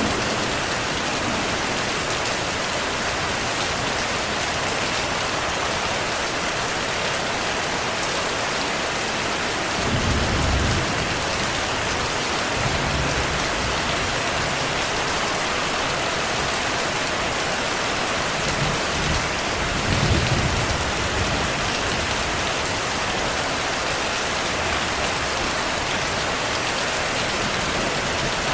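Steady heavy rainfall, an even hiss of drops, with low thunder rumbles swelling about ten seconds in and again around twenty seconds in.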